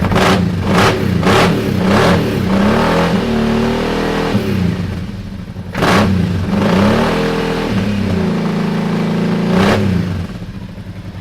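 Kawasaki Teryx side-by-side's V-twin engine through a Yoshimura dual exhaust, revved in place: four quick throttle blips, then longer revs that rise and fall, one held high near the end before it drops back to idle.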